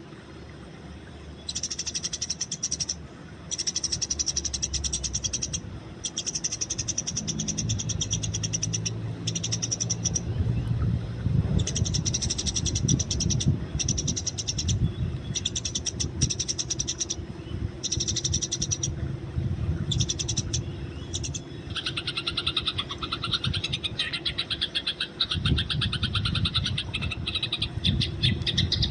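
Eurasian tree sparrows chirping in repeated rapid bursts of high chirps, each a second or two long with short gaps between. A denser, lower chattering takes over about two-thirds of the way in.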